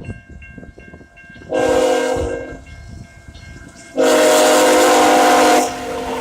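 Grade-crossing bell ringing, then an EMD diesel freight locomotive's air horn sounds twice: a blast of about a second, then a longer, louder one of about a second and a half.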